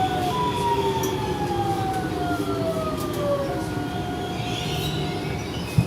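Alstom series 8900 electric train heard from inside the car: the traction motor and inverter whine glides down in pitch in several steps as the train slows, over steady running and wheel noise. A single short knock comes near the end.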